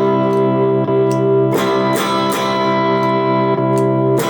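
Electric guitar (a Gretsch Pro Jet) strumming sustained chords through a NUX Morning Star BluesBreaker-style overdrive pedal, lightly driven. The pedal's Shine mode is held off, giving a less bright tone.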